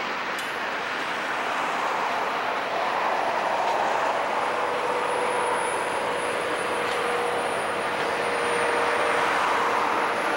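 Ringling Bros. and Barnum & Bailey circus train's passenger cars rolling past on the rails, a steady noise of wheels on track. A faint steady whine joins about four seconds in.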